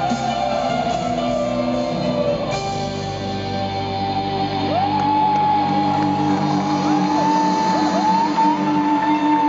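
Live band playing the closing bars of a pop ballad, guitar chords ringing under long held notes that a voice swoops up into several times in the second half.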